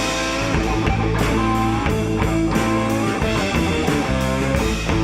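Rock band playing an instrumental passage between sung lines: guitar over bass with regular drum hits.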